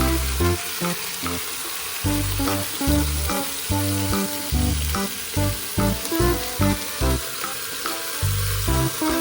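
Food sizzling steadily in an auto-rotating roll pan, under background music with a regular bass beat.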